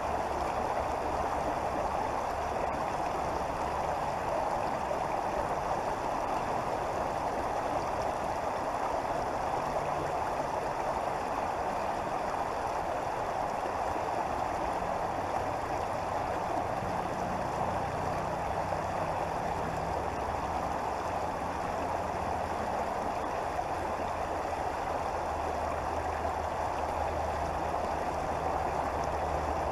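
Creek water flowing steadily over rocks, an even rushing babble. A faint low hum sits underneath at times.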